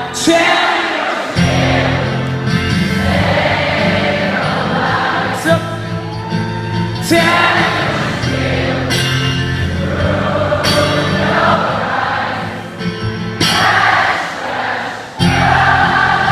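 Live rock band playing loud through a concert PA, with many voices singing long held notes. The bass and low drums drop out briefly near the start and again near the end, then come back in abruptly.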